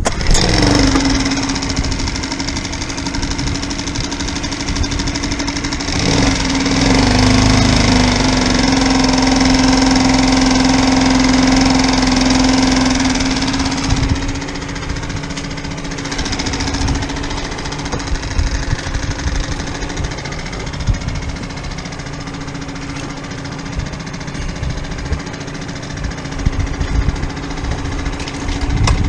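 Boat engine running with a steady hum, starting abruptly; it grows louder and a little lower between about six and fourteen seconds in, then settles back to a steady run.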